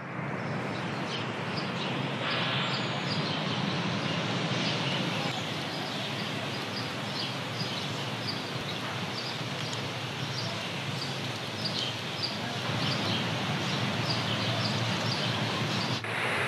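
Steady rushing outdoor background noise, with a bird repeating a short high chirp about every two-thirds of a second.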